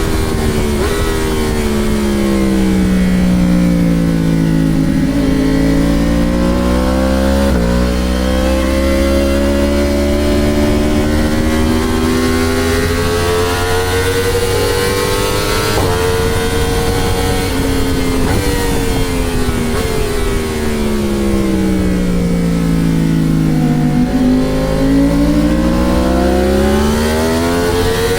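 Motorcycle engine heard from on board at track speed. Its pitch sinks slowly as the bike slows for corners and climbs again as it drives out, with sudden steps at gear changes, over a constant low wind rumble on the microphone.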